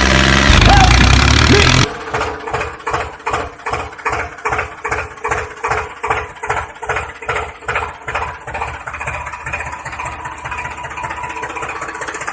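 Rhythmic tractor-engine chugging from a miniature tractor, about two beats a second, quickening in the last few seconds. It is preceded by a loud burst with sliding tones in the first two seconds.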